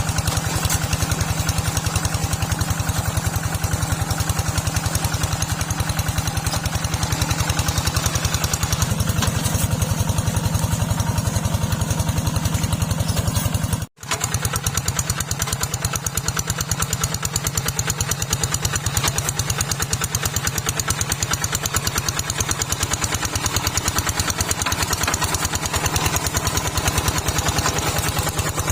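Small tractor's engine running steadily with a fast, even firing rhythm; the sound drops out for an instant about halfway through, then resumes.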